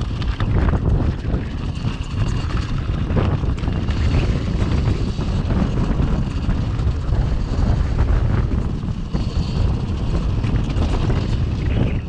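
Cake Kalk OR electric dirt bike being ridden: steady rush of wind on the microphone with a faint high whine from the electric motor and scattered knocks from the bike over the ground.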